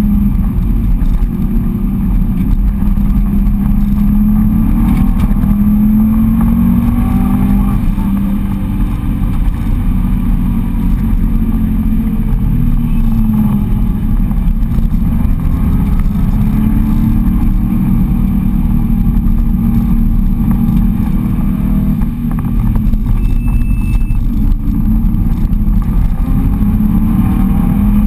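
Subaru Impreza's flat-four engine heard inside the cabin at track speed, its note rising and falling as the car accelerates and slows through corners, over heavy road and wind rumble.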